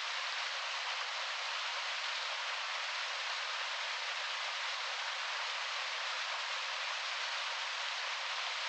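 Heavy rain falling on a window: a steady, even hiss with no low rumble and no thunder.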